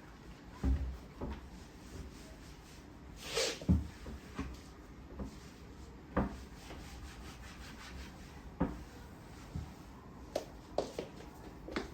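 Scattered light knocks and clunks of household objects being handled and set down during cleaning, with a brief rubbing swish about three seconds in. No vacuum is running.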